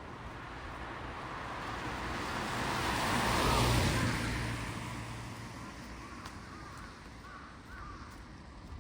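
A car passing by, its tyre and engine noise swelling to loudest about three and a half seconds in and then fading away. Crows cawing in the second half.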